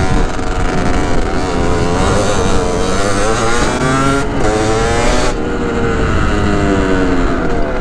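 Stock Beta RR 50 motard's 50cc two-stroke engine revving up and down while the bike is ridden, its pitch rising and falling repeatedly, over wind rush that eases a little past the middle.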